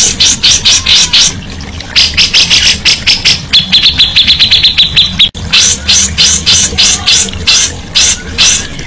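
A songbird calling in fast series of sharp, harsh notes, several a second, with a quicker run of buzzy notes on one pitch about three and a half seconds in. The sound cuts off abruptly just after five seconds, then the same rapid calling resumes over a steady low hum.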